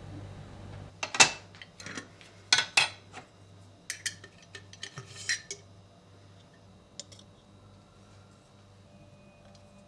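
Cutlery and dishes clinking and clattering as they are handled: a run of sharp clinks about a second in that fades into a few faint taps by the second half.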